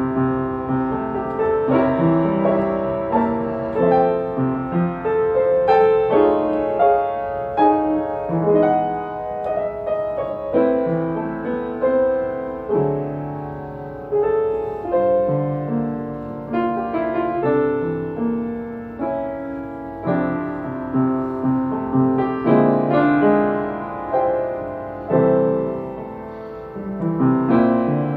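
Solo jazz piano playing a slow ballad, with rich extended chords and a melody over them; the chords come in waves, struck about every second and left to ring.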